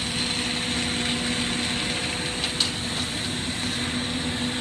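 Steady hiss and hum of a glassblowing torch shop: the torch flame hissing over a constant low mechanical hum. There is a brief click about two and a half seconds in.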